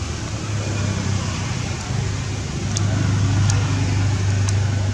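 A low, steady motor hum that grows louder about three seconds in, over a background of noise with a few faint clicks.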